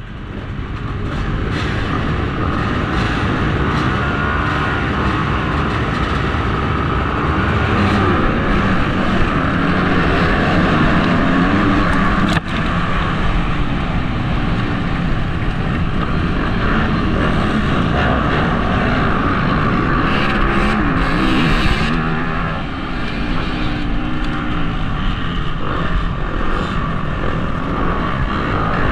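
Motocross bike engine revving up and down as the rider works the throttle around the track, picked up by a helmet-mounted camera, with a steady low rumble beneath it.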